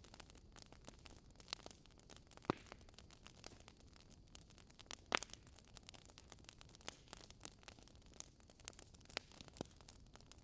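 Wood fire crackling in a fireplace: a faint run of small ticks and snaps over a low hiss. Two louder pops come about two and a half seconds and five seconds in, and a smaller one near the end.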